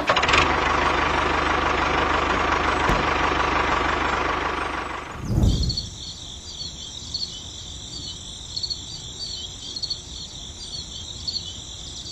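A steady mechanical running noise, with a low rhythmic pulse, lasts about five seconds and stops suddenly. After it comes a quieter, continuous high insect-like chirping.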